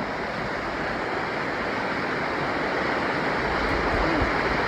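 Steady rush of river water flowing over rocks and small falls.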